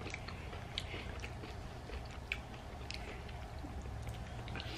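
Close-up chewing of chili cheese fries: soft, scattered mouth clicks and smacks, over a low steady hum.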